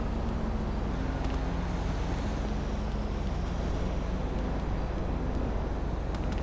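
Car audio system playing bass-heavy music loudly: a deep, steady bass rumble with a low bass line stepping between held notes.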